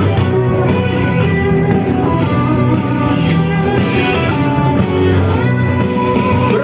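Rock band music led by guitar, an instrumental passage with no singing.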